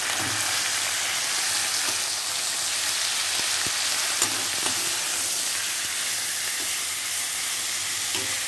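Shredded cabbage and boiled potato sizzling steadily in oil in a steel kadai, stirred with a steel ladle that clicks lightly against the pan a few times.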